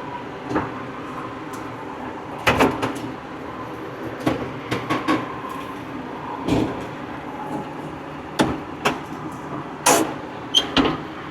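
Old farm tractor running steadily, with a string of sharp clunks and rattles over it, the loudest around the middle and near the end.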